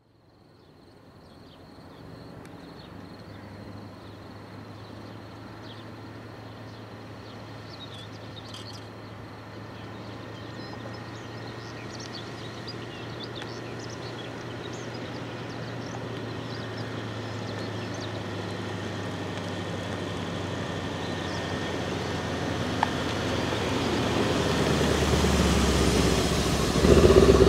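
Brabus 800 Mercedes-AMG C63 S 4.0-litre V8 running at low revs as the car rolls slowly toward and past, its steady low engine note growing louder as it comes close and loudest as it passes near the end.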